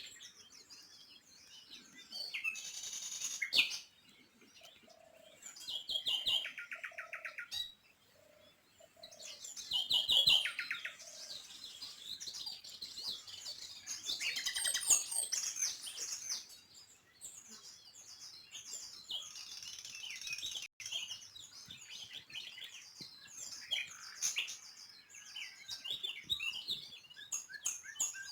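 Small birds chirping and twittering, many short high calls and quick trills overlapping, with brief pauses between bursts.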